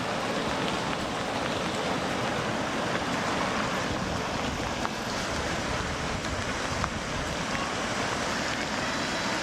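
Steady rushing noise of flowing water, with some wind on the microphone.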